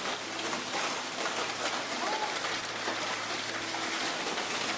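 Storm of heavy rain and wind: a steady rushing hiss with no break.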